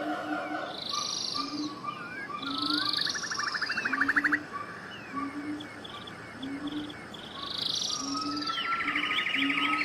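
Several birds singing together: high whistled phrases, scattered chirps and a rapid trill twice, over a low short note repeated about once a second.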